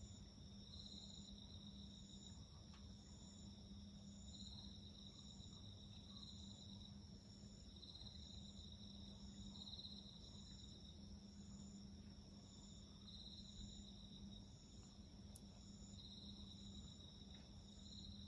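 Several insects calling together, faint: one holds a steady high trill, another chirps in short pulses about twice a second, and a third swells and fades every second or two. A single faint click comes near the end.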